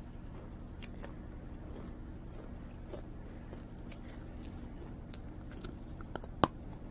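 Close-up biting and chewing of hard roasted red cubes: soft scattered crunches, with one sharp loud crack of a bite about six seconds in.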